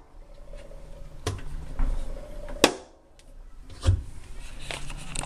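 Kenmore Elite HE3 front-load washer drum turning slowly, giving three sharp clicks about a second and a quarter apart, like a plastic piece being hit, with fainter knocks around them. This is the clicking the owner hears twice per drum revolution, faster as the spin speeds up.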